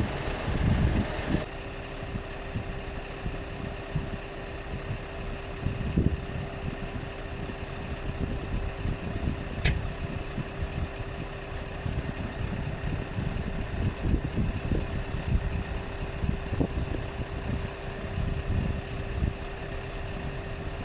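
Diesel engine idling steadily with a constant whine over a low rumble, louder for the first second or so, with a single sharp click about ten seconds in.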